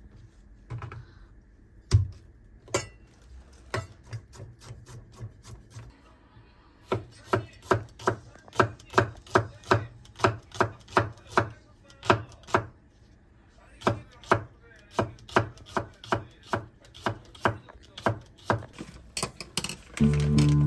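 Knife chopping on a wooden cutting board: a few scattered strokes at first, then a steady run of sharp chops, about two to three a second.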